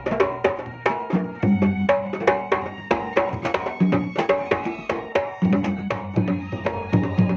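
Kendang hand drums playing a fast pencak silat accompaniment rhythm, several strokes a second, over held pitched notes.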